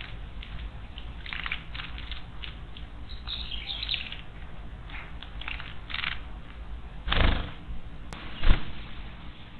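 A small bird fluttering its wings and giving a few short chirps, with two louder flaps or thumps about seven and eight and a half seconds in.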